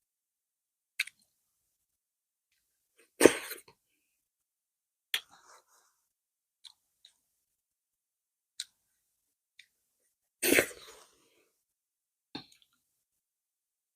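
Close-miked eating sounds of a person eating fufu with okra soup: scattered soft mouth clicks and smacks, with two louder short mouth noises about three and ten seconds in.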